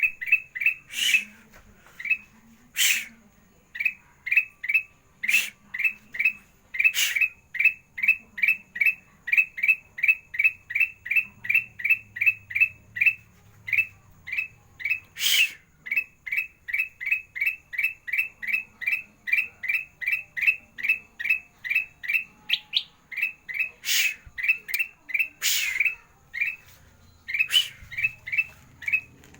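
Kutilang emas, a bulbul, singing in the chattering 'garigit' style: a long run of short, quick rising notes, about three a second, broken every few seconds by a louder, harsher note.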